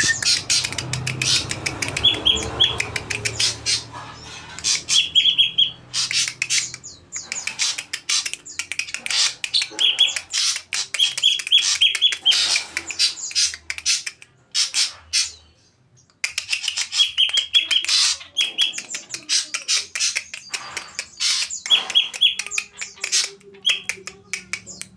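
Greater green leafbird (cucak ijo) singing a rapid string of sharp notes and short trills, in imitation of an ashy drongo's song, with a brief pause a little past halfway.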